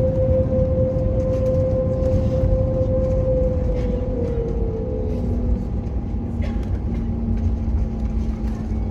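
Cabin noise of an Airbus A321neo taxiing after landing. Its CFM LEAP-1A engines make a steady low rumble and a whine that drops a little in pitch about four seconds in, and a lower hum comes in shortly after.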